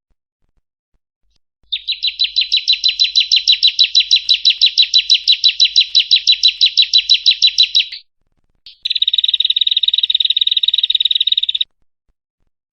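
Female bar-winged prinia (ciblek) calling: a fast run of sharp, high chirps at about eight a second for some six seconds, then, after a short pause, a quicker buzzing trill lasting about three seconds.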